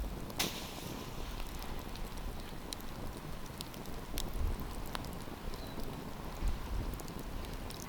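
Wood campfire crackling, with scattered sharp pops over a steady hiss and low rumble of the flames; one louder pop about half a second in.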